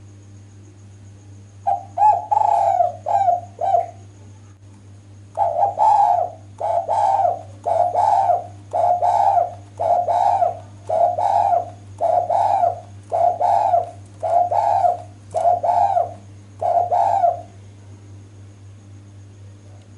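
Female spotted dove (derkuku) cooing as a lure call: a quick run of four coos, then after a pause a steady series of about a dozen coos, roughly one a second.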